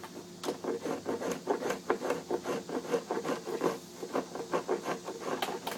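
Wood being rasped by hand in quick, even back-and-forth strokes, about four or five a second, starting about half a second in, as a bevel is shaped down to marked lines.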